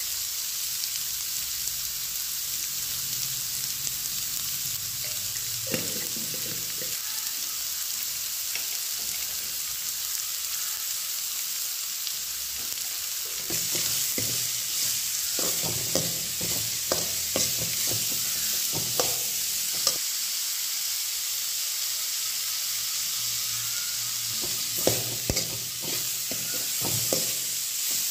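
Fermented bamboo shoot sizzling as it fries in a metal wok, with a steel ladle stirring, scraping and clinking against the pan. The clinks and scrapes become busier about halfway through.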